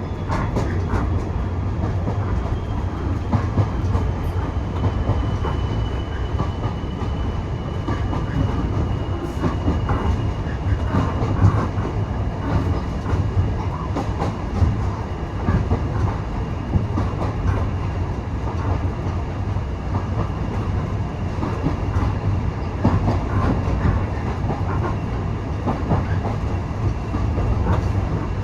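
Railway carriage rolling along the track: a steady low rumble of the wheels, with irregular clicks and rattles from the rail joints and the coach. A faint high whine runs through the middle stretch.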